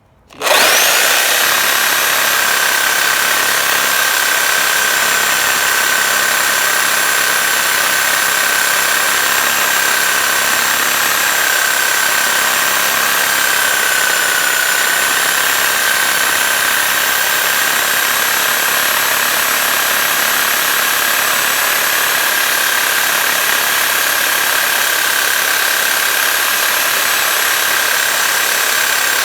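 Power saw fitted with a fresh blade, cutting continuously with a steady high whine. The sound starts abruptly just after the start, and the pitch sags briefly about halfway through as the blade bites harder.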